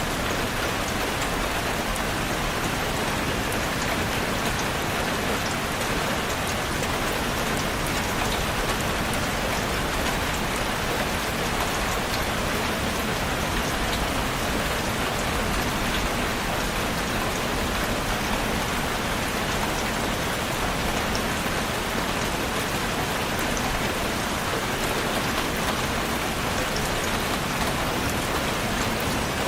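Steady rain falling on a surface, with individual drops ticking faintly above an even hiss.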